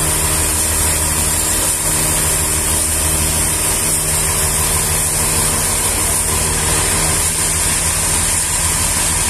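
A sawmill's engine running steadily, with a constant high hiss over it; the low engine hum eases slightly near the end.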